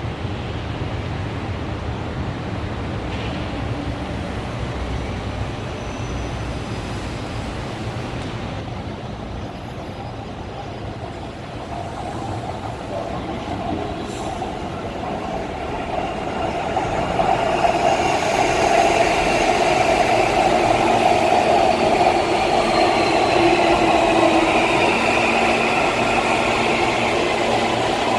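Electric commuter train running on the rails into the station, its wheel and rail noise growing louder from about halfway through, with a motor whine that slowly falls in pitch near the end.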